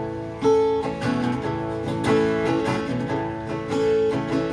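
Acoustic guitar being strummed, chords ringing in a steady rhythm between sung verses of a country song.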